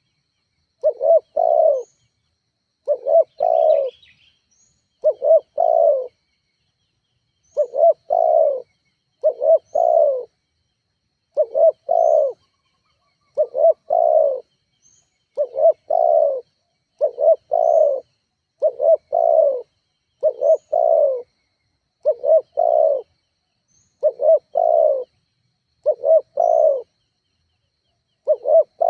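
Spotted dove (tekukur) cooing: the same short phrase of two or three low coos repeated over and over, about one phrase every two seconds, with silence between phrases.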